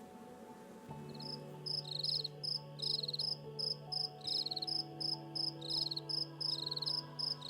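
Soft, slow music with held notes, a low note coming in about a second in. Over it, crickets chirp in a steady rhythm of about three chirps a second, at two alternating pitches.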